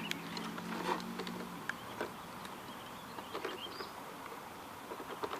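Scattered small clicks and knocks of a hobbyist handling an RC boat and its light connector, over a low steady hum that stops about a second and a half in, with faint chirps in the background.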